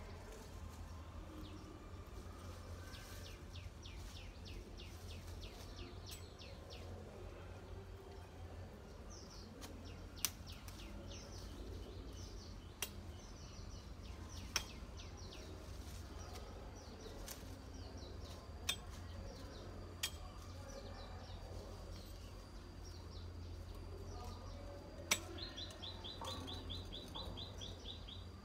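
Small songbirds calling: runs of short, quick, falling chirps, then a fast high trill near the end. A few sharp clicks stand out over a steady low rumble.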